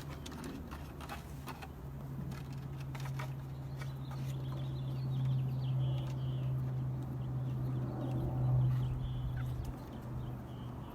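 A bird's faint short chirps over a steady low hum, with light clicking taps in the first few seconds.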